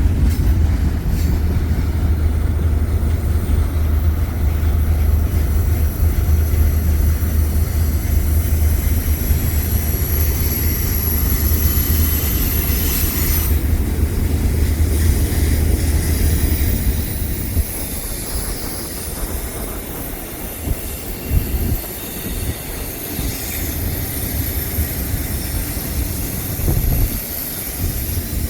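Heavy freight train rolling past: a deep low rumble of wheels and cars on the rails with a thin, steady high-pitched wheel squeal over it. The low rumble drops off about two-thirds of the way through, leaving lighter rolling noise and squeal.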